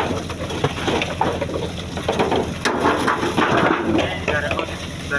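Fishing boat's engine running steadily under a busy mix of irregular knocks and noise, with indistinct voices.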